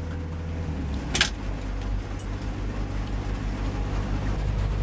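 Heavy vehicle engine running steadily with a low hum, with a sharp click about a second in.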